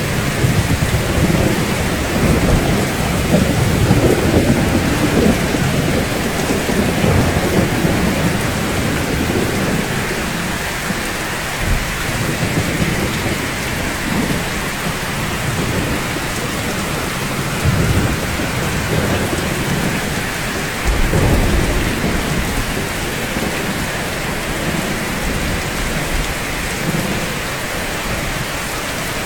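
Steady rainfall, a dense even hiss of drops, with deep low rumbles swelling through the first ten seconds and again about 21 seconds in.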